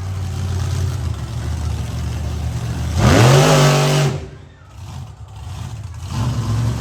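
Monster truck's supercharged V8 engine running, then revved hard about three seconds in: the pitch sweeps sharply up and holds for about a second, the loudest moment, before dropping away. It revs up again near the end.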